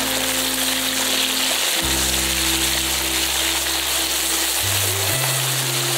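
Onions frying and sizzling in oil in a steel pot on a canister gas stove, under background music of slow held chords that change every couple of seconds.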